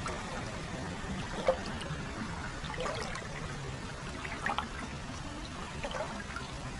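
Hot-spring water flowing into an open-air foot bath, trickling steadily, with small splashes about every one and a half seconds, the sharpest about a second and a half in.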